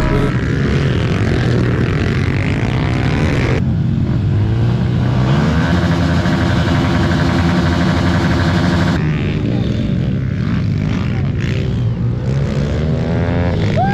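Pit bike engines running hard during a race, their pitch rising and falling as the riders rev through the gears and corners.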